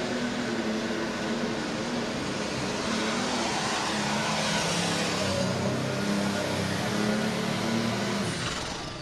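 Pro stock pulling tractor, a turbocharged diesel John Deere 4020, running at full throttle under load as it drags the weight sled. The engine note wavers in pitch and drops away near the end as the run finishes and the driver backs off.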